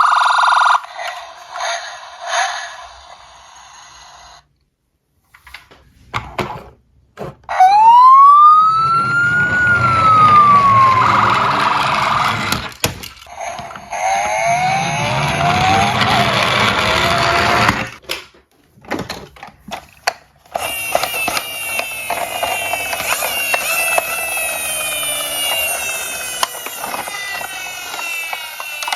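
Emergency-vehicle siren sounds, a wailing sweep that rises and falls, broken by short gaps with sharp clicks. The last third is a dense jumble of many overlapping rising tones.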